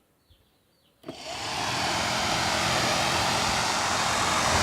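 Nissan Maxima heater blower fan motor, its commutator newly replaced, switched on with a click about a second in, spinning up quickly and then running with a steady airy whir. It is wired with reversed polarity, so it spins backwards and blows little air.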